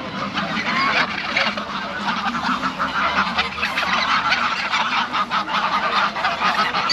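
A large flock of geese honking over one another in a constant, dense chorus, apparently at feeding time.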